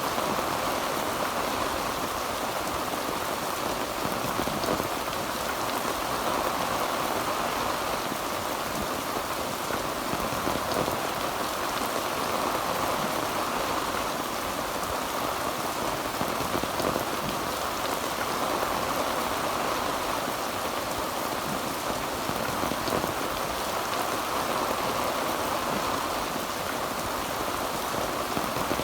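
Heavy rain drumming steadily on a tin roof, a dense even patter of drops with no thunder.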